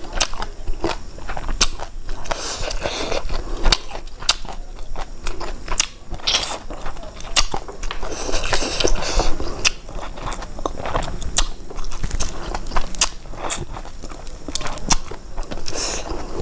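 Close-miked chewing and wet mouth sounds of a person eating a salad by hand, with many sharp clicks scattered throughout.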